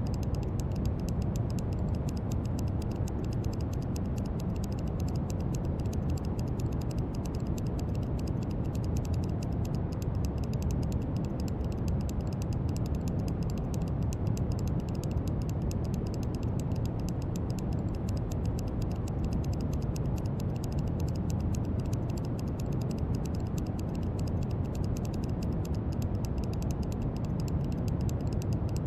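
Brown noise: a steady, unchanging hiss weighted heavily toward the deep end, like a low rumble.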